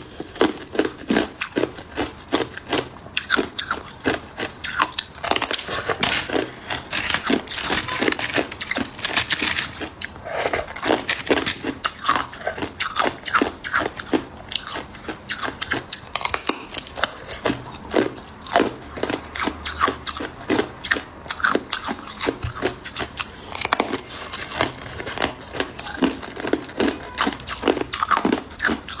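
Hard ice cubes being bitten and chewed close to the microphone: continuous sharp, irregular crunching and cracking, several crunches a second.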